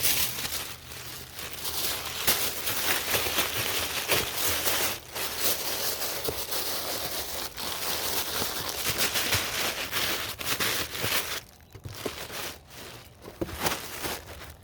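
Packing paper crinkling and rustling as it is handled and wrapped around a tool, steady for about eleven seconds. Near the end it thins out into a few scattered rustles and knocks.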